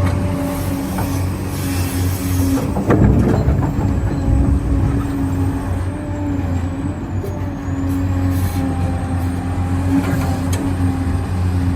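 Radio-controlled scale construction machines running, with a steady mechanical hum, a faint high whine that rises and falls, and a short burst of rattling about three seconds in.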